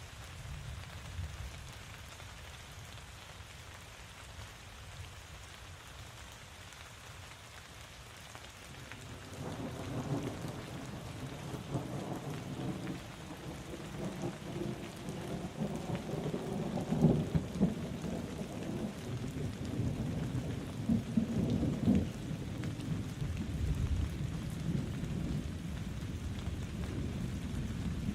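Steady rain with a long roll of thunder that begins about a third of the way in, building to its loudest peaks past the middle and still rumbling low near the end.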